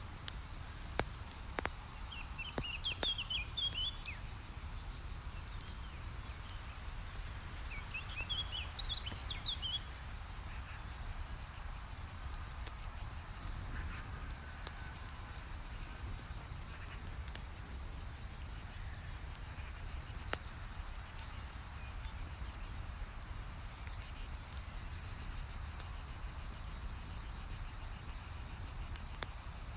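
Campfire burning with a few sharp crackling pops over a steady hiss and low rumble. A bird chirps in two short bursts in the first ten seconds.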